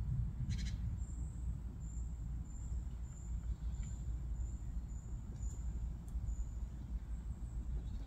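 A small bird's very high, thin call notes, repeated about twice a second, over a steady low rumble.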